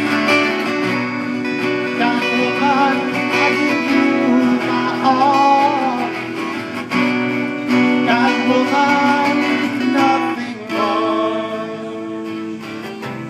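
Live acoustic guitar music in an instrumental passage between sung verses: strummed and picked chords, with a wavering melody line above them.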